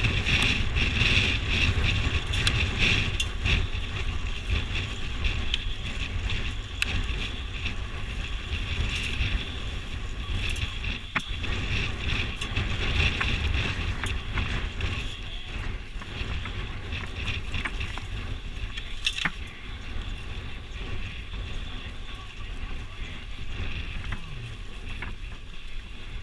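Dirt bike running on a trail, its engine mixed with heavy wind buffeting on the camera microphone, with scattered sharp clicks and knocks.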